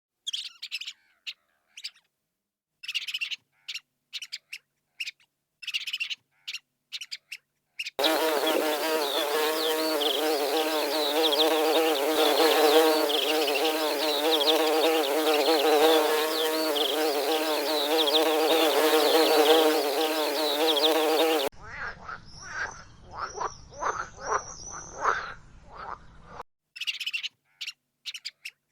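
Cartoon sound effects for animated prey. Short bursts of high-pitched squeaks and chirps come first. About eight seconds in, a dense buzzing of bees with wavering pitch starts, runs for some thirteen seconds and cuts off suddenly. It is followed by a run of chirps and then more short squeaks near the end.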